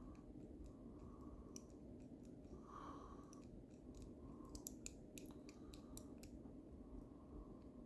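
Faint, scattered light metallic clicks of lever-lock picks working the levers inside a Squire 440 lever lock while it is held under torque; the clicks come more often in the second half.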